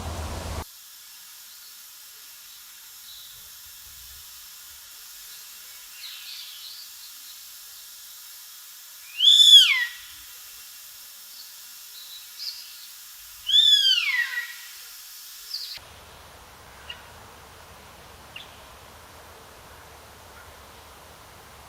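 A bird gives two loud calls about four seconds apart, each a brief slur that rises and then falls in pitch, with a few faint chirps between them, over a steady high hiss of forest ambience.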